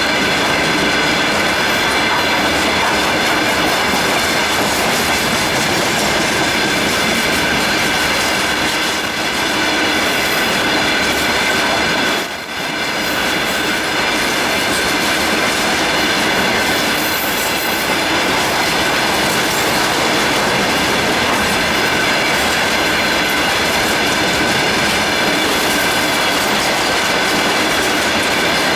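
Freight train rolling steadily past, wheels clattering over the rail joints, with steady high ringing tones from the wheels on the rails. The sound dips briefly about twelve seconds in.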